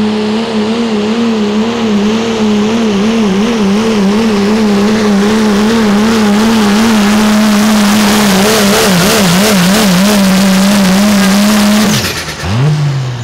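1990 Dodge Ram race truck's engine at full throttle, held at high revs with its pitch wobbling rapidly up and down. About twelve seconds in the throttle comes off and the revs fall away, followed by a couple of short blips.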